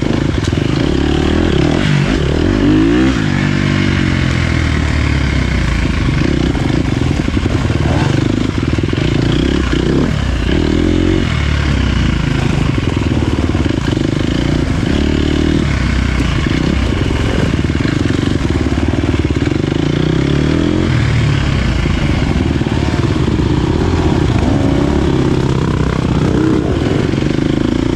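Dirt bike engine being ridden hard, its pitch rising and falling over and over with throttle and gear changes.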